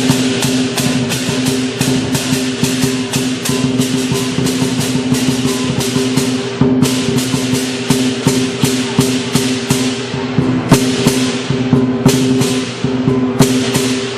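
Lion dance percussion: a drum beating with cymbal crashes about three to four times a second over a steady ringing tone, pausing briefly twice.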